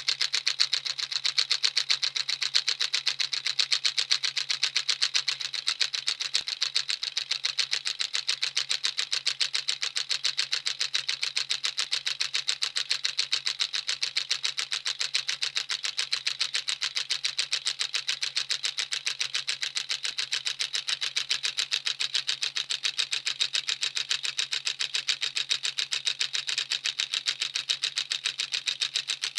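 Homemade 12 V electromagnet engine running steadily, its magnet pulling the mechanism round in a rapid, even train of clicks, several a second.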